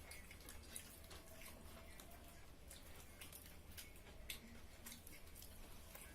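Near silence with faint, scattered short clicks of people eating a meal.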